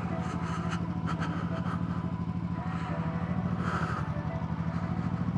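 Motorcycle engine running at a steady speed while cruising, its firing pulses even and unchanging, with road and wind noise over it.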